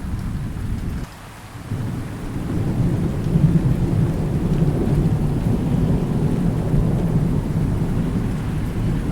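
Thunder rumbling over steady rain. The rumble drops away briefly about a second in, then swells again and rolls on.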